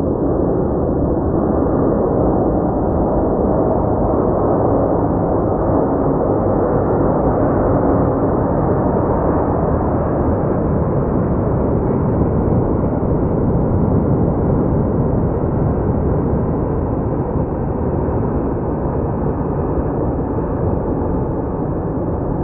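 Jet airliner engines giving a loud, steady, deep roar, as during a takeoff or close flyby, with the sound held low and dull.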